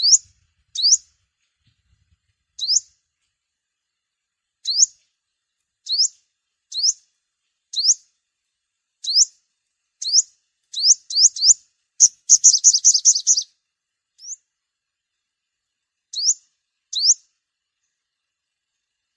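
Sunbird calling: short, high, upward-sweeping chip notes, singly or in quick pairs about a second apart, then a fast run of about eight notes and two more single calls.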